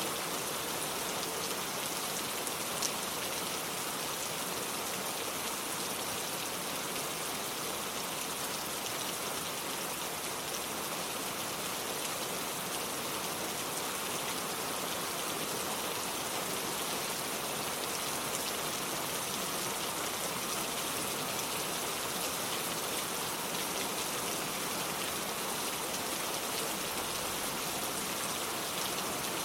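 Steady rain falling, with a dense patter of drops on wood and water and no let-up.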